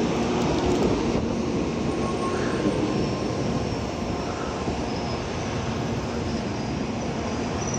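N700-series Shinkansen train rolling along the platform as it pulls in: a steady rumble and rush of wheels on rail and moving air, with a low steady hum, easing slightly as it slows.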